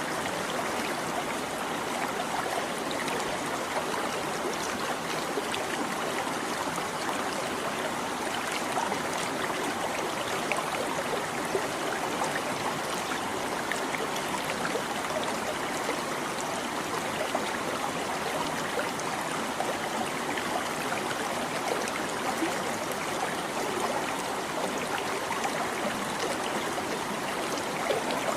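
A small stream babbling and trickling over stones, a steady flow of water with small splashes and gurgles.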